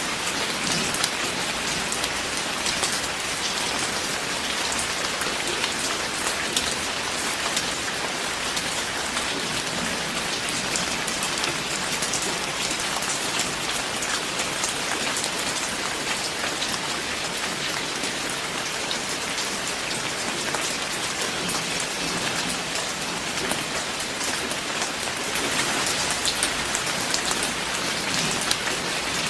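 Steady rain falling: a dense, even hiss of drops with many sharp individual patters, growing a little heavier near the end.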